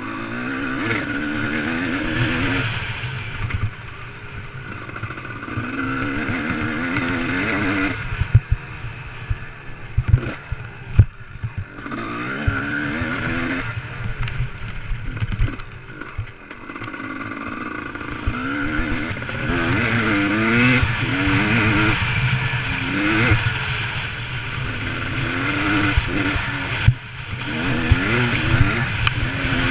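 Motocross bike engine revving up and down in repeated surges a few seconds long as it is ridden, easing off briefly between them. A few sharp knocks come around eight to twelve seconds in.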